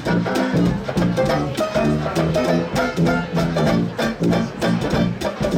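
Instrumental swing music with a walking bass line and a steady beat.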